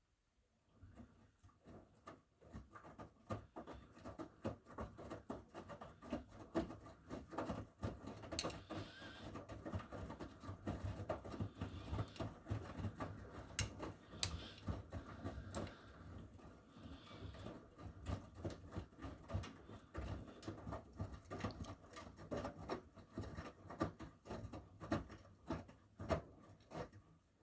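Miele W1 front-loading washing machine turning its drum during the wash phase, wet laundry tumbling with a dense run of soft thumps and patters. It starts about a second in and stops abruptly near the end as the drum pauses.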